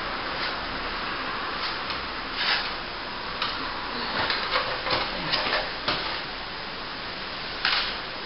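Plastering tools working a wet top coat of plaster: scattered short scrapes and taps, most frequent in the middle, over a steady hiss.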